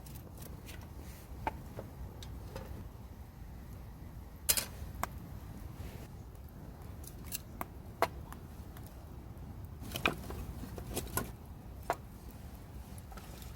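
Scattered light clicks and knocks of cooking gear being handled, the sharpest about four and a half seconds in and a cluster near the end, over a low steady rumble.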